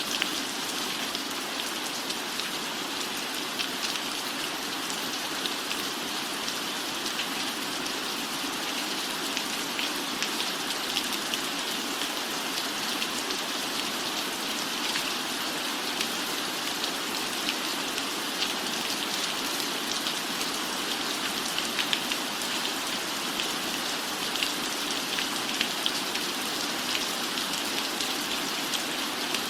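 Steady, even rainfall with many small scattered drop ticks and no change in intensity.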